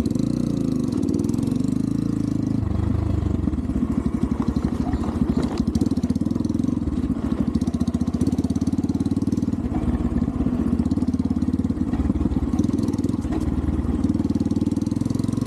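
Xpro Templar X 250cc single-cylinder four-stroke dirt bike engine running with a fast, even low beat, its revs shifting up and down a few times with the throttle.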